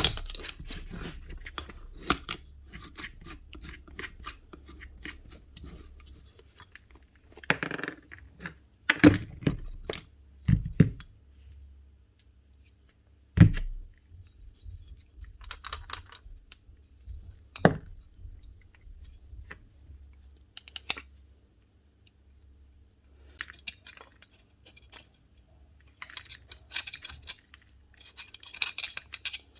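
Hand-work on an angle grinder being taken apart: irregular clicks, clinks and scraping of small hard parts being handled, with a few louder sharp knocks.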